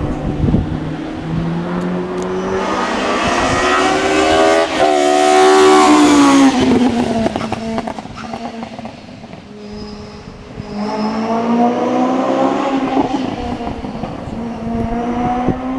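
Race car engine at full throttle climbing through the gears and passing, loudest about six seconds in, then falling in pitch and fading. A second engine run rises from about eleven seconds in.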